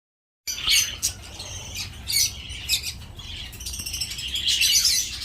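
Many caged pet birds chirping together, a busy chorus of short, high chirps and calls that starts suddenly about half a second in.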